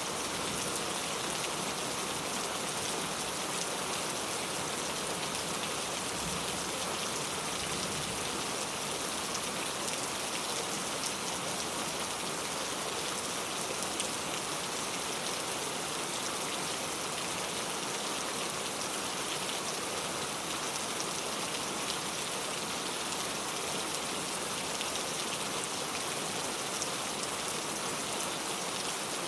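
Steady rainfall, a dense even hiss of drops, with no change in strength.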